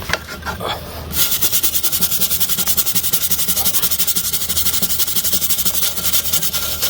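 Brush scrubbing the cylinder head of a Ford 8BA flathead V8 to clear rust and deposits. After a few scattered knocks, fast, even scrubbing strokes of about ten a second start about a second in.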